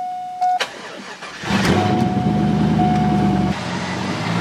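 A warning chime stops, then the Corvette's V8 is cranked and catches about a second and a half in, started on a newly replaced ignition switch. It runs at a fast idle, then settles to a lower, steady idle near the end.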